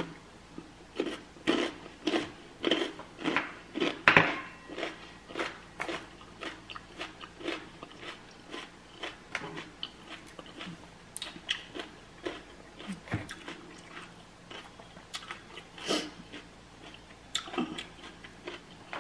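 Close-up crunchy chewing of a jalapeño stuffed with cream cheese and crushed Takis, about two chews a second. The chewing slows and softens in the second half.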